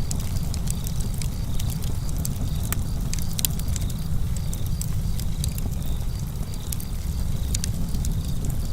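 Campfire crackling: a steady low rumble with frequent, irregular sharp pops and snaps.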